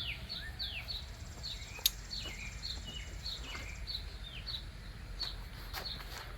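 A small bird calling over and over, each note a quick high downward-sliding chirp, two or three a second. A single sharp click comes about two seconds in.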